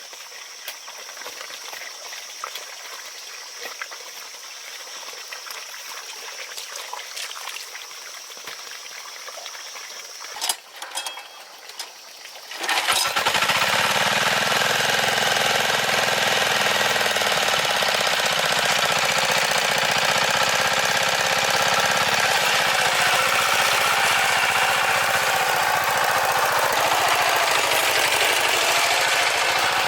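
A small engine on farm machinery starts abruptly about 13 seconds in and then runs steadily and loudly at an even speed. Before it starts there is only a quiet outdoor background, with a few sharp clicks just before the engine catches.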